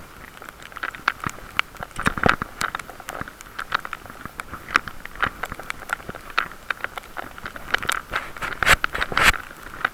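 Irregular crackling taps and knocks on a waterproof camera housing over a steady rushing haze, with the loudest knocks a little past two seconds in and again near the end.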